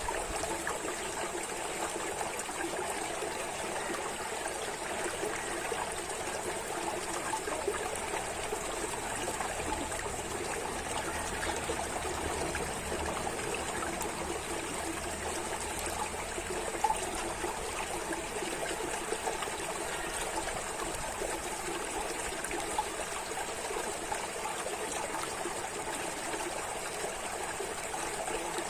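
Water running and trickling in a steady, unbroken flow, like a small stream, with a steady high hiss above it.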